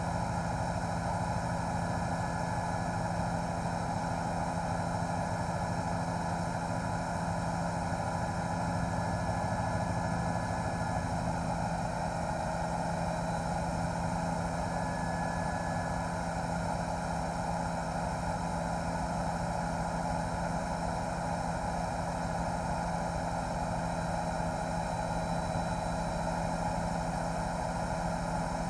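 News helicopter's rotor and turbine engine running, heard from on board: a steady, unchanging drone with a low hum and several fixed higher tones.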